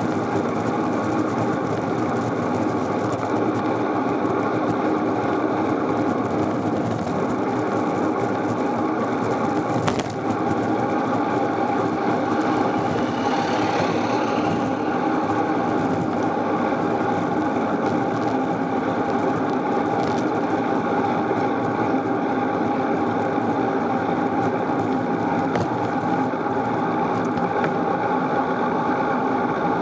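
Steady rolling and wind noise from a bicycle in motion, with a single sharp click about ten seconds in.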